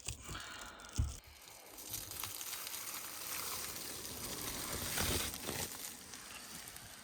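Someone moving about inside a parked car: a dull thump about a second in, then rustling and crinkling over a steady hiss, swelling briefly around five seconds in.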